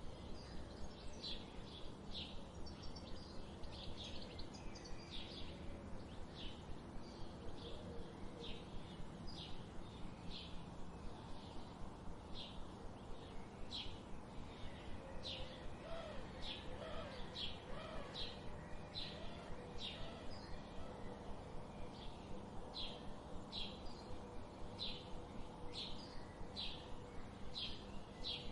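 Forest birdsong: a bird repeating short high chirps steadily, a few a second, over a low steady background, with a second, lower warbling call briefly about halfway through.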